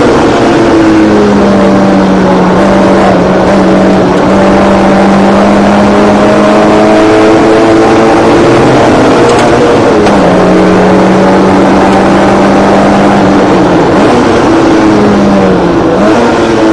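Mazda MX-5 race car's four-cylinder engine running at high revs, heard from inside the cockpit over wind and road noise. Its pitch holds steady for long stretches and dips briefly about midway and again near the end as the driver lifts and changes gear.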